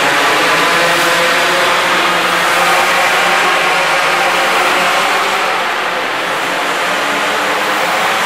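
Minibike engine running steadily at high revs, easing off slightly about six seconds in.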